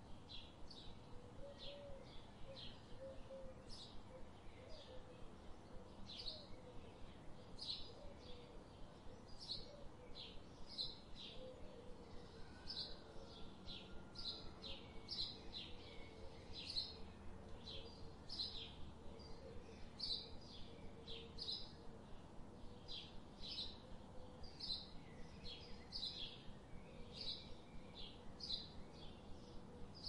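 Small birds chirping: a steady run of short, high chirps, often several a second, over faint background noise.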